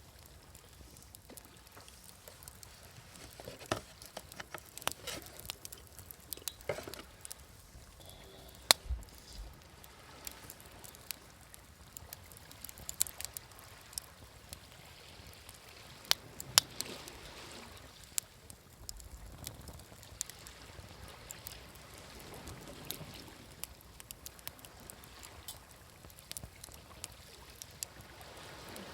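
Wood fire crackling with scattered sharp pops, over the low, slowly swelling wash of sea waves.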